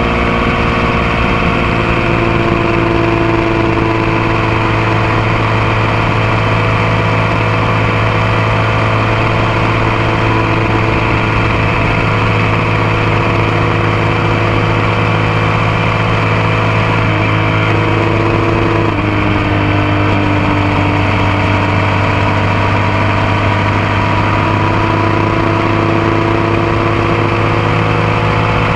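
Motorcycle engine running steadily, picked up close to the bike from a foot-peg mount. Its pitch shifts slightly in two small steps about 17 and 19 seconds in.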